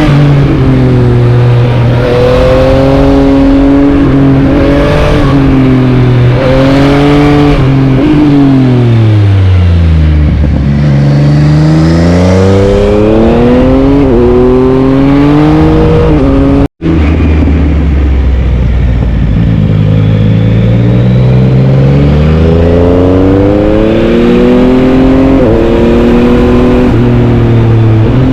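Yamaha MT-09's three-cylinder engine ridden hard, recorded on the bike: revs climb and drop back in quick steps several times as it shifts up through the gears, then the revs sink low as the throttle closes, and it pulls up through the gears again. The sound cuts out for an instant about halfway, at a splice between clips.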